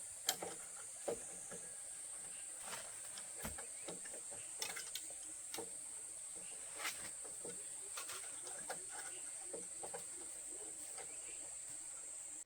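A steady high-pitched insect drone, with scattered light knocks and clicks over it.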